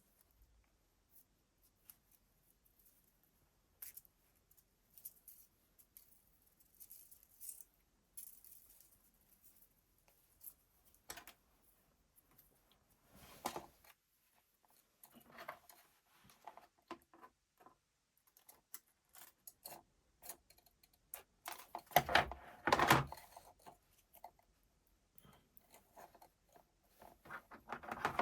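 Scattered light clicks, taps and short rustles of small hard parts being handled, with a louder run of knocks a little past two-thirds of the way in.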